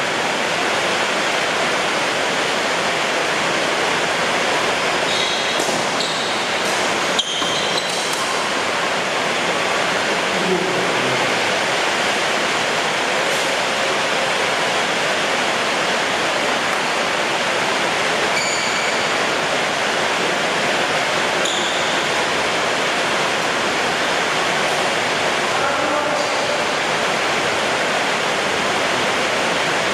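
Heavy rain pouring down in a steady, even hiss, with one sharp knock about seven seconds in.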